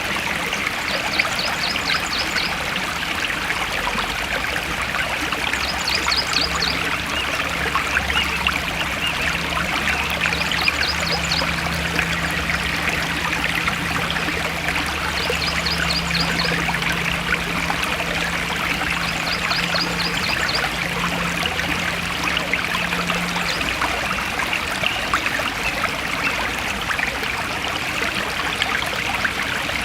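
Forest stream of water flowing steadily. A short, rapid high-pitched trill repeats about every five seconds over the first twenty seconds, and a faint low hum comes and goes in the middle.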